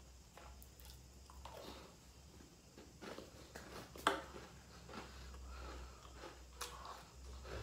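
A person chewing crunchy chocolate sandwich cookies (Goriorio) with the mouth closed: faint crunching with a few sharper crunches, the loudest about four seconds in.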